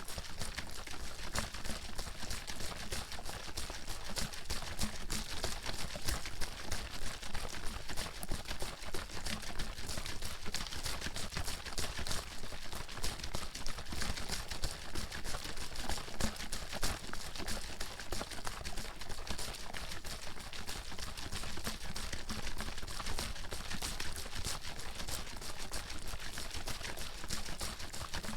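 Water sloshing and splashing inside a bottle being shaken continuously, a rapid, steady run of splashes.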